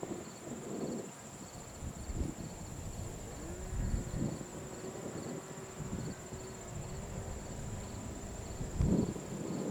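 Crickets trilling steadily on one high pitch, with gusts of wind buffeting the microphone and a faint low hum through the middle.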